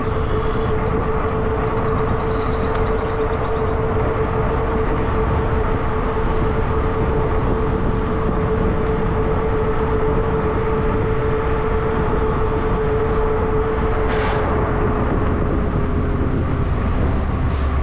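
Zota Zephyr fat-tire e-bike under way, its electric motor giving a steady whine over wind rumble and rolling noise. The whine eases slightly about fourteen seconds in.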